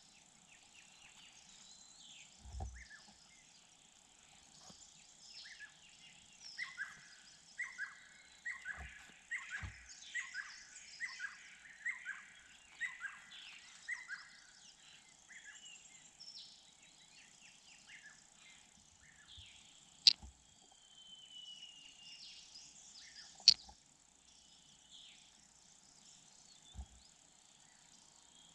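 Small birds chirping and calling, one repeating a short dropping call about twice a second for several seconds, over a steady faint insect drone. Two sharp taps about three seconds apart in the second half are the loudest sounds.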